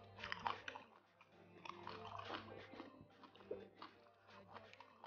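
Faint close-up eating sounds of semolina swallow and ogbono soup being eaten by hand: soft chewing with scattered wet mouth smacks and clicks, over a low steady hum.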